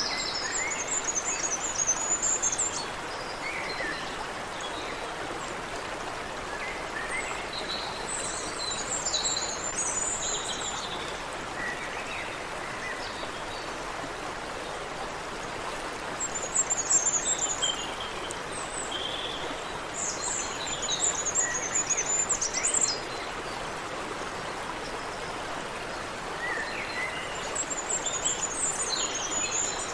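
Creek water running steadily, with songbirds singing short, high twittering phrases every few seconds, about five times.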